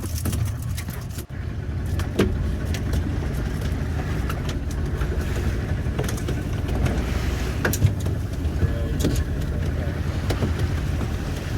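A motor running steadily as a low, even rumble, with scattered light clicks and knocks over it.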